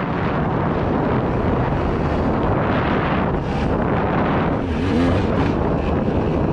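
Heavy wind buffeting on the microphone over a moving vehicle's running noise, swelling a little about halfway through.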